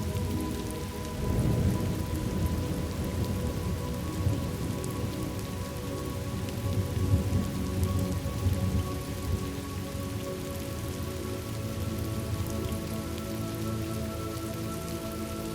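Thunderstorm ambience: steady rain with low rolls of thunder swelling about a second in and again around seven to nine seconds in. Faint held tones sit underneath.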